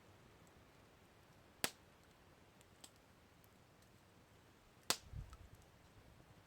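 Campfire crackling: sparse faint ticks with two sharp pops, one about a second and a half in and a louder one near five seconds. A brief low thud follows the second pop.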